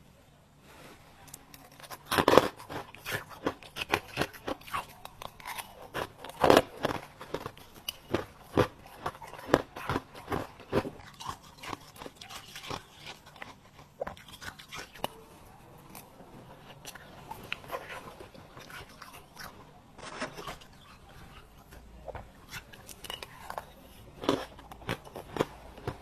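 Close-miked biting and chewing of soft, crispy freezer frost: a long run of sharp, irregular crunches, loudest about two and six seconds in, growing sparser in the second half.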